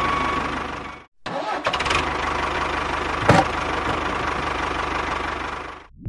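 Tractor engine starting and running with a rapid, even chug; it cuts out about a second in and starts again, with a sharp click a little past three seconds in.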